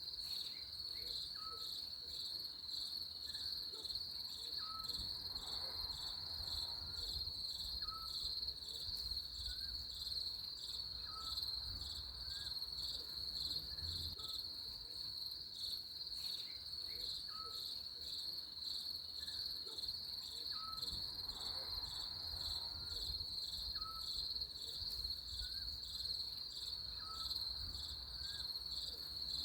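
Insects chirping in a steady, high-pitched, evenly pulsing chorus without a break. A faint short call repeats about every two seconds.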